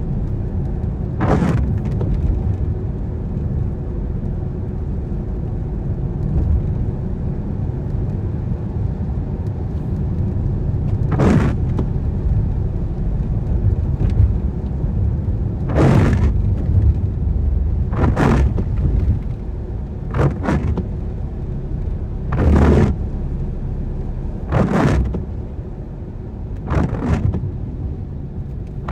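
Car driving on wet roads in the rain: a steady low road and engine rumble, with short swishes, one near the start and then one every two seconds or so from about a third of the way in.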